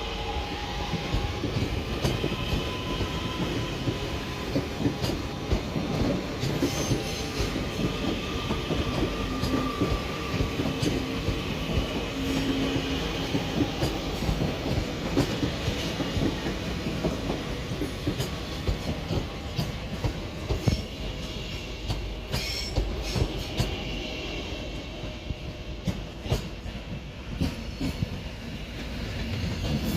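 A train moving through a station, its wheels clicking over rail joints and points, with on-and-off high-pitched wheel squeal over a steady rumble.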